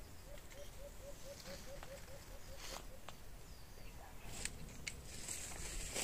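A bird calling in the forest: a quick run of short, low, upward-curving notes, about four a second, lasting about three seconds, with faint clicks and rustles around it.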